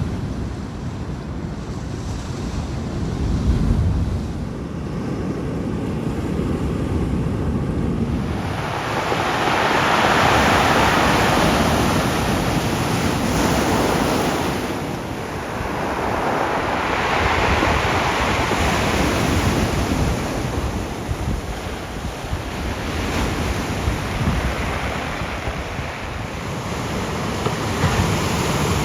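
Atlantic surf breaking and washing up the shore, swelling and fading every few seconds. Wind rumbles on the microphone, mostly in the first several seconds.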